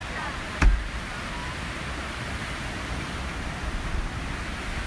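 Steady outdoor noise of wind and water, with a low rumble of wind on the microphone. One sharp thump comes about half a second in.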